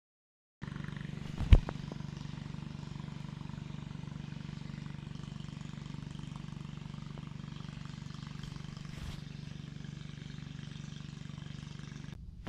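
Steady low motor hum, with a single sharp knock about a second and a half in; it starts and stops abruptly.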